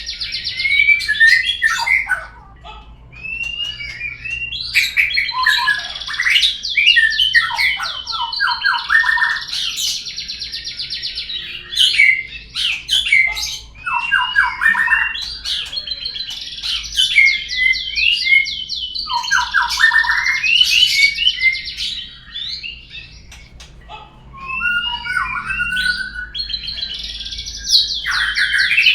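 White-rumped shama (murai batu) song played as a lure track to set caged birds singing: loud, varied phrases of rapid high trills, whistled slurs and harsh notes, repeating every few seconds with short pauses between.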